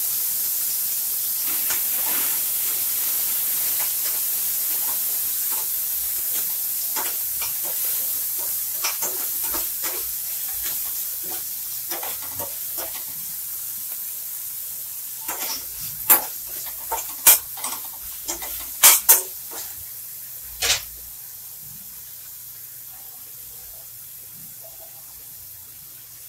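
Chopped tomato, onion, green chillies and curry leaves sizzling in hot oil in a steel kadai while a spatula stirs them, scraping and clacking against the pan. The sizzle slowly dies down, and the sharpest clacks of the spatula come in a cluster about two-thirds of the way through.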